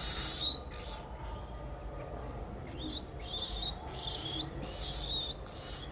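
Baby cockatiel chirping, a series of short calls that each rise in pitch, about five over a few seconds.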